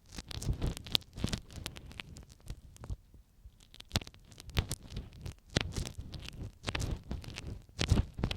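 An ear pick scraping and tapping inside an ear right at the microphone: an irregular run of close scratches and clicks, several a second, with low rubbing thumps beneath.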